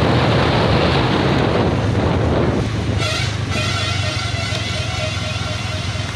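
Motorcycle ride on a hill road, with wind rushing on the microphone. About three seconds in the wind noise drops and a steady pitched tone with several overtones comes in over the road noise.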